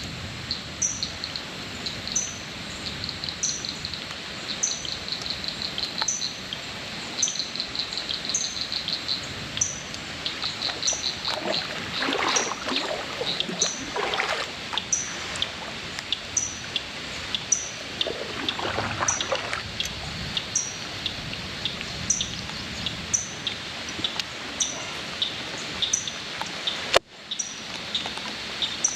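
Lakeside ambience at dusk: a short high chirp repeating about once a second over pulsed insect trilling, with a few brief water splashes in the middle. A sharp click near the end.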